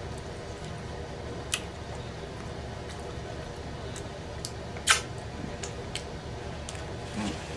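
A man chewing a fry with mouth smacks: a few short sharp clicks, the loudest about five seconds in, over a steady low room hum.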